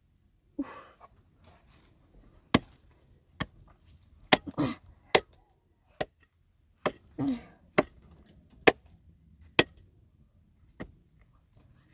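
A series of sharp knocks, about one a second, with a few short voice-like sounds between them.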